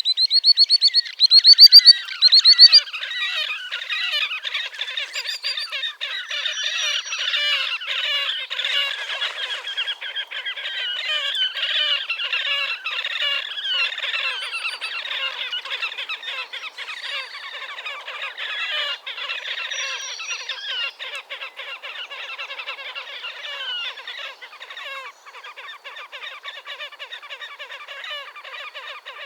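Dense chorus of frogs calling over one another. Loud, repeated high trilling bird calls stand out over it in the first three seconds.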